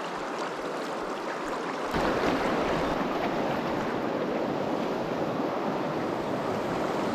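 Fast river current rushing steadily around a wader in heavy water, growing louder and fuller about two seconds in.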